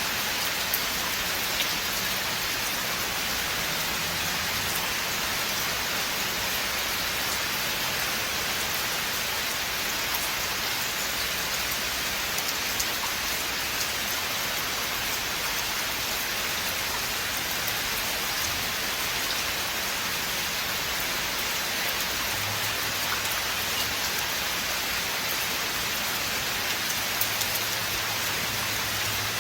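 Steady rain falling on a forest, a dense even hiss with scattered individual drop ticks.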